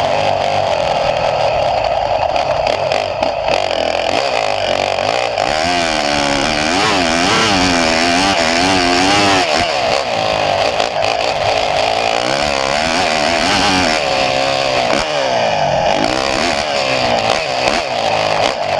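Motocross dirt bike engine at full ride, revving up and down repeatedly as it works through the throttle and gears. It is heard close up from a camera mounted on the bike, with a steady hiss of wind and track noise underneath.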